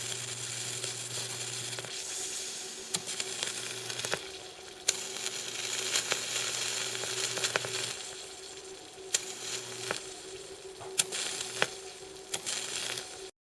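High-voltage arc from a rectified and capacitor-smoothed microwave oven transformer, sizzling steadily and crackling with several sharp snaps. A low transformer hum comes and goes underneath, and the whole sound cuts off suddenly near the end.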